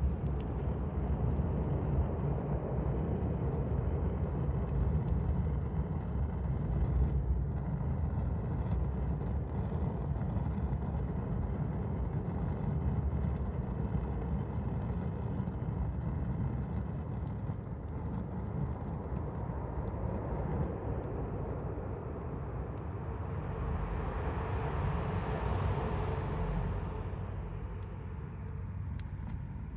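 Campfire burning with sparse small crackles over a steady low rumble. A broader rushing sound swells and fades about three-quarters of the way through.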